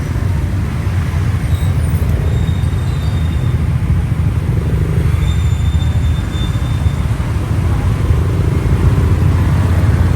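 Steady low wind rumble on the microphone with motorcycle and street traffic noise, as heard while riding a motorcycle through city traffic.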